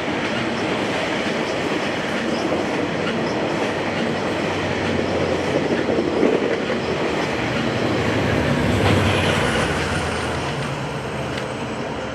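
GO Transit commuter train with an F59PH diesel-electric locomotive passing: the locomotive's engine drone mixed with wheels clattering over the rails. It gets louder up to a peak about nine seconds in, then fades.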